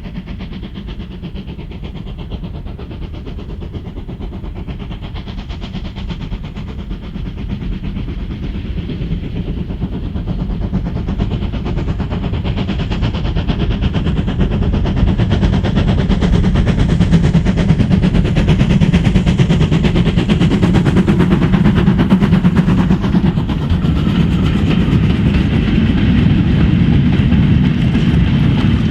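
Steam locomotive working a train, its exhaust beats coming in quick succession and growing louder as it approaches, then staying loud as it draws close.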